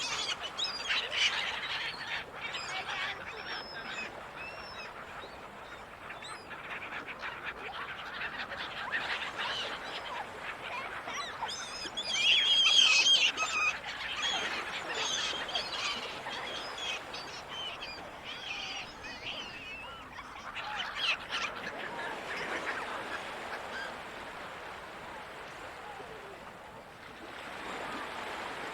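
Gulls calling repeatedly, a flock of overlapping cries over a steady background hiss, loudest about halfway through.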